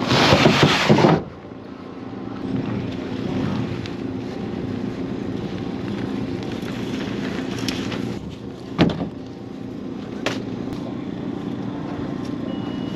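A vehicle engine running steadily, heard with a hum of evenly spaced low tones. A loud rush of noise fills about the first second, and two short knocks come later.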